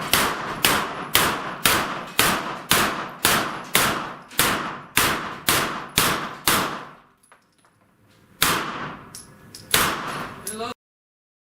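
A string of gunshots fired at steel plate targets, about two shots a second for some six seconds, then a pause and two more spaced shots. The sound cuts off abruptly near the end.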